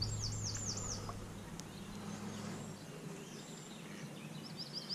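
A songbird singing: a quick run of four or five high, swooping notes at the start, and another phrase beginning near the end, over a faint steady low hum that fades out a little past halfway.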